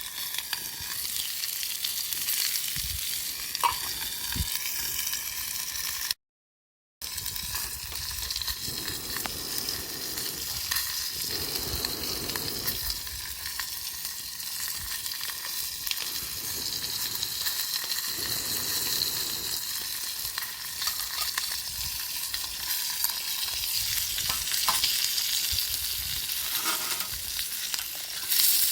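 Food sizzling as it fries, a steady hiss that cuts out completely for under a second about six seconds in.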